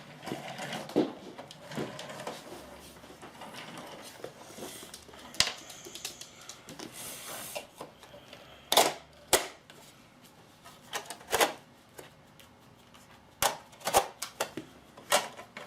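Plastic toy cars and playset pieces being handled, giving scattered sharp clicks and taps that come more often in the second half.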